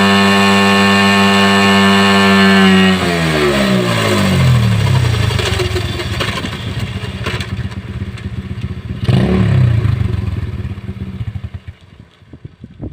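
Pit bike's single-cylinder engine held at full throttle in top gear while stationary, driving a newly installed chain with the rear wheel turning freely. About three seconds in the throttle is closed and the revs fall away; a short blip of throttle rises and falls near nine seconds before the engine settles low, with light clattering near the end.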